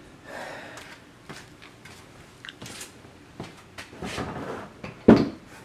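Hand work on engine parts: scattered clicks, knocks and rustling as parts and wiring are handled, with a loud knock about five seconds in.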